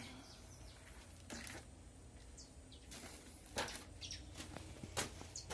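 Small birds chirping: short, high, falling chirps repeated throughout, with a few brief scuffs, the loudest about three and a half and five seconds in.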